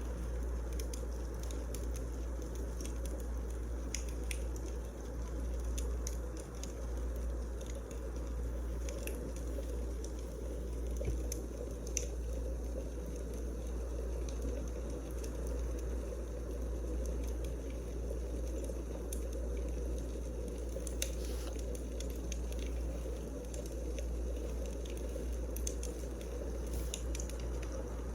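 Wood fire burning in a fireplace, with scattered small crackles and pops over a steady low rumble.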